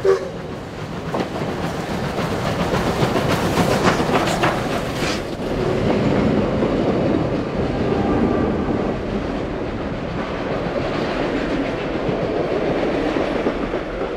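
Victorian Railways R class 4-6-4 steam locomotive R761 and EMD S class diesel S313 passing close by at the head of a passenger train, followed by the carriages, their wheels clicking over the rail joints. A short sharp crack at the very start; the loudest, sharpest sounds come about three to five seconds in as the steam engine goes by, then a steady dense rumble of the diesel and carriages.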